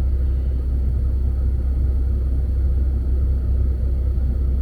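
Steady low rumble of a motor vehicle, with no distinct events.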